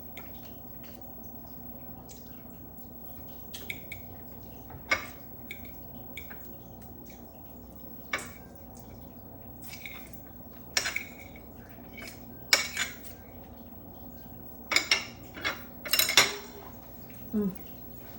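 Scattered light clicks and clinks of small hard objects being handled, about a dozen spread irregularly and bunched most densely near the end, over a steady low hum.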